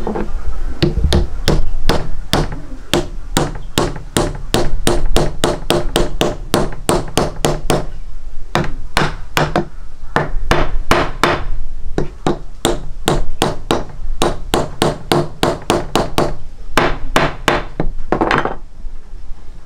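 Rapid, regular hammer-like strikes, about three a second, with a short break about eight seconds in and again near sixteen seconds, stopping shortly before the end.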